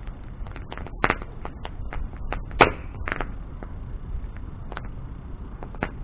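Wood bonfire crackling, with irregular sharp pops over a low steady rumble of the flames; the loudest pop comes about two and a half seconds in.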